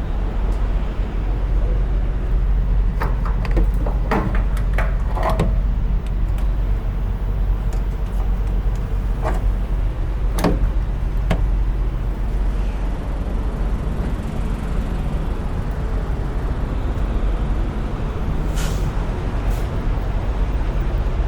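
Semi truck's diesel engine idling with a steady low rumble, with a run of metal clicks and clanks about three to six seconds in and two sharper clanks around ten seconds in as the fuel cap and pump nozzle are handled. A short hiss comes near the end.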